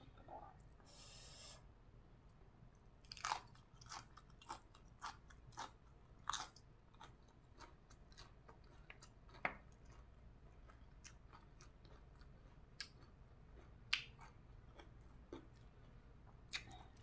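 Close-up chewing and biting of crisp green papaya salad and raw vegetables: irregular crunches and wet mouth clicks starting about three seconds in, a few of them much louder than the rest.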